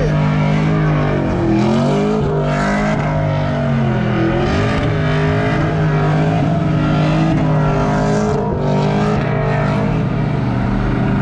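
Car engine held at high revs and run hard, its pitch rising and falling again and again as the throttle is worked.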